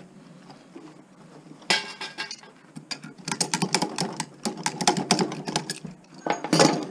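Metal clinking and rattling of hand tools against the metal bracket and nuts of an electric motor being dismantled: quiet at first, then a quick run of short knocks and clinks from about two seconds in, with a louder cluster near the end.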